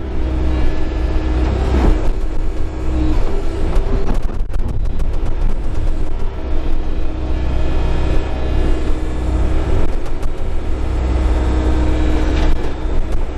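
Excavator's diesel engine running steadily under working load, heard from the cab, with a cluster of knocks about four seconds in.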